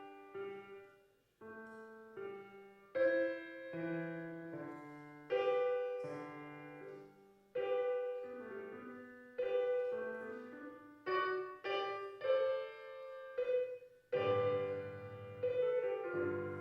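Solo piano playing a slow melody with chords, a new note or chord struck every second or two and each one ringing and fading.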